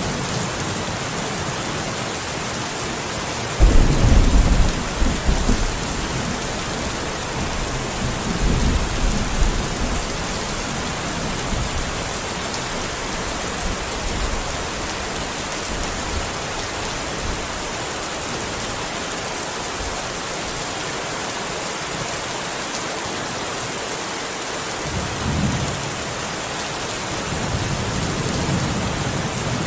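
Steady heavy rain with thunder: a sudden loud clap about three and a half seconds in, rumbling on for several seconds, and softer distant rolls of thunder near the end.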